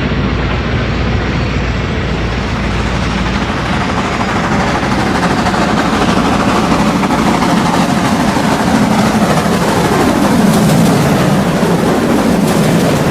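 Continuous loud vehicle running noise whose tone slowly falls in pitch over several seconds, like something passing by. A low hum under it stops about three and a half seconds in.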